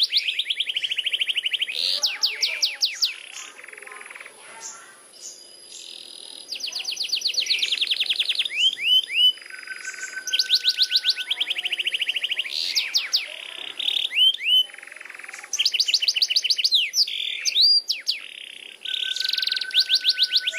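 Domestic canary singing a long, continuous song of rolling trills: phrases of very fast repeated notes, some rising or falling, follow one another with only brief pauses.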